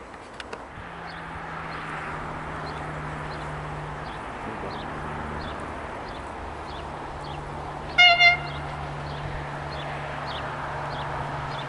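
Railway horn sounding a short double toot about eight seconds in, over a steady low hum and regular high chirps.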